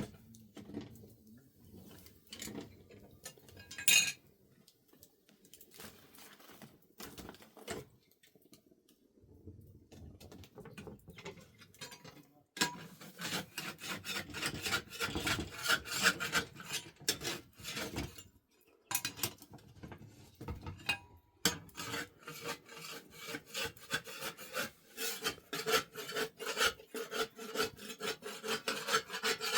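Scattered knocks and clinks, then from about twelve seconds in a quick, steady run of scraping or rubbing strokes.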